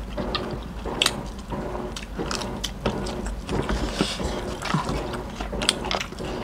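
Eating sounds from two people eating rice and steamed fish by hand: chewing, mouth clicks and lip smacks, with scattered small clicks and taps at irregular intervals.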